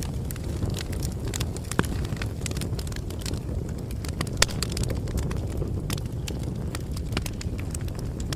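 Bonfire burning: a steady low rumble of flames with frequent sharp crackles and pops of burning wood, the loudest pop about four seconds in.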